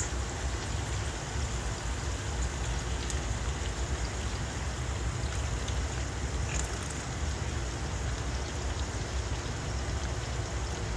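Steady sizzling of pork and chicken cooking in a frying pan over a gas stove, with a low rumble underneath and a few faint pops.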